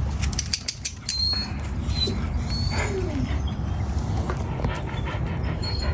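Wind rumbling on the microphone outdoors, with a dog's short falling whine about three seconds in and a few faint high bird chirps.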